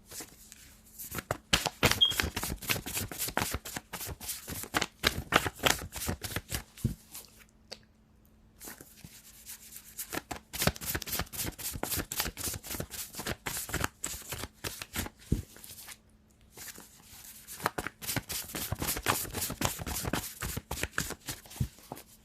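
Deck of reading cards being shuffled by hand, a dense run of quick card clicks. It comes in three long spells, with short pauses about eight and sixteen seconds in.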